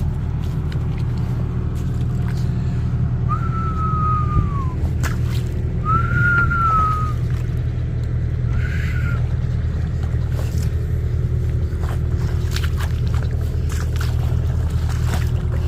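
An engine running steadily with a low drone, with three short whistled notes over it, the first falling, the second arching, the third brief, about three, six and eight and a half seconds in, and a few scattered knocks.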